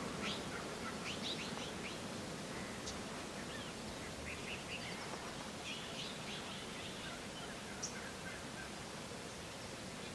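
Birds calling with many short, scattered chirps and high notes over a faint steady outdoor hiss, with one sharp brief note near the end.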